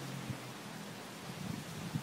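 The exhaust note of a KTM 450 SMR single-cylinder supermoto dies away about half a second in. After that there is only outdoor wind noise and rustling on the microphone, with a few faint low thumps.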